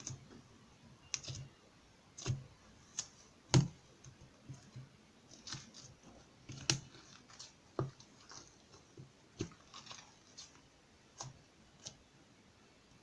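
Irregular sharp clicks and taps, roughly one or two a second, some with a soft low knock, the loudest about three and a half seconds in.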